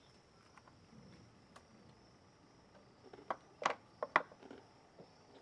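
Saltwater crocodile's jaws crunching on a dead feral pig: a short run of sharp cracks about three seconds in, over a steady high hum of insects.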